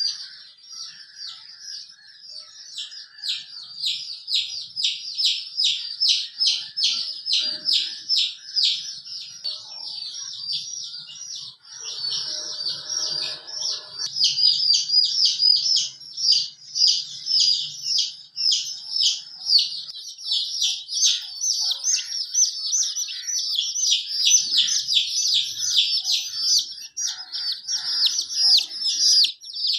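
A brood of young domestic chicks peeping continuously, a quick run of high, shrill chirps several a second, growing louder about halfway through.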